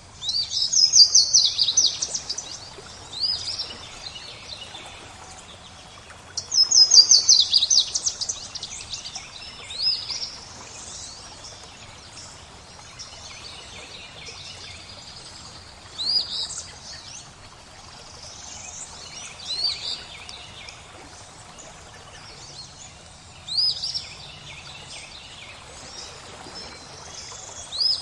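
Songbirds singing: two loud rapid trills in the first eight seconds, then single rising chirps every few seconds, over a faint steady rush of flowing water.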